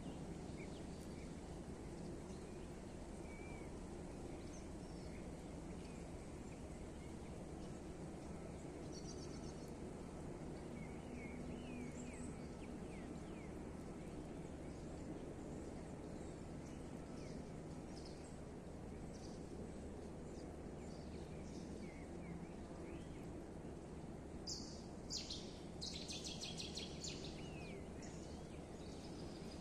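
Outdoor ambience: a steady low background rumble with scattered small bird chirps. Near the end comes a louder burst of rapid, high repeated bird notes.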